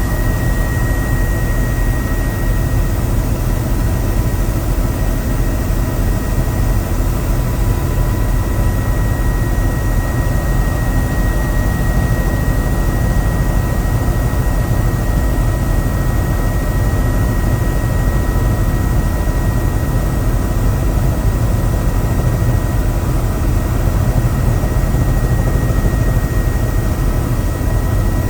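Helicopter in steady flight: continuous rotor and turbine engine noise with a steady high whine throughout.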